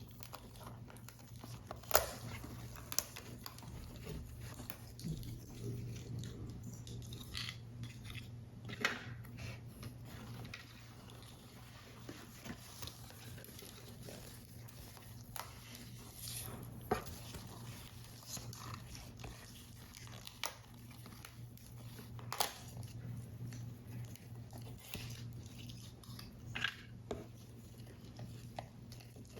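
Paper model assembly handling sounds: irregular light taps and clicks of card pieces and tools, with soft paper rustling between them, over a steady low hum. The sharpest clicks come about 2 seconds in and again near two-thirds of the way through.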